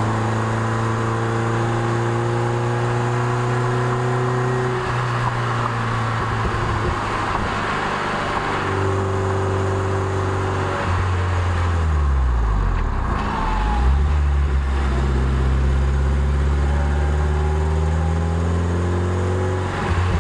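Toyota MR2 Spyder's 1.8-litre four-cylinder engine running onboard on a mountain climb, over steady road noise. The engine note dips sharply about twelve seconds in, as at a gear change, then climbs steadily as the car accelerates.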